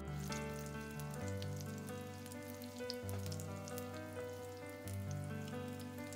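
Corned beef and egg omelette patties sizzling and crackling in hot oil in a frying pan, under background music.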